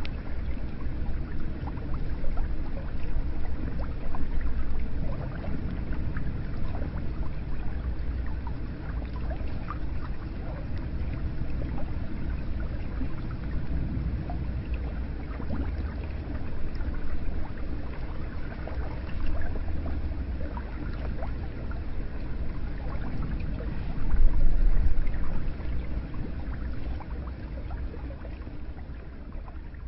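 Hot spring water flowing and pouring steadily into an onsen bath, a continuous splashing wash with a deep low rumble underneath. The rumble swells briefly late on, and the sound begins to fade out at the very end.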